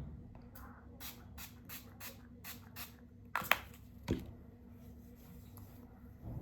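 A pump spray bottle of face or body mist sprayed about seven times in quick succession, short hissy puffs roughly two or three a second, during a skincare routine. Then comes a sharp click and a knock, as of the bottle being capped or set down.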